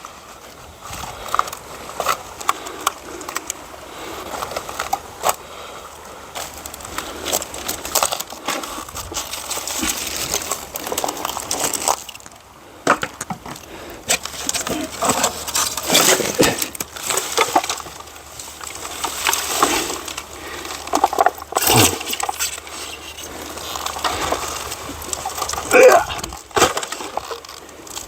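Firewood being gathered and handled: irregular knocks, clatter and cracking of logs and branches.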